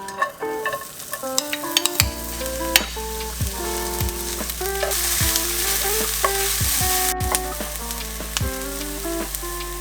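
Food sizzling and frying in a hot pan, a steady hiss that grows louder at about two seconds and again midway. Background music plays over it, a plucked melody joined by a deep bass and kick-drum beat about two seconds in.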